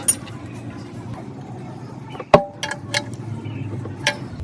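A few sharp knocks and clinks of metal, the loudest a little over two seconds in with a short ring, over a low steady background hum.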